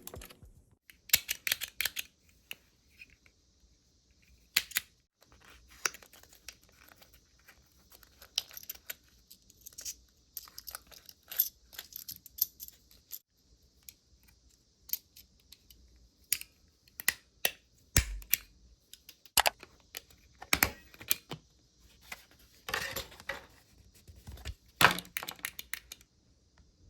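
Irregular clicks, taps and crinkling of packaging as stationery is unboxed and handled on a desk, with a few brief tearing sounds.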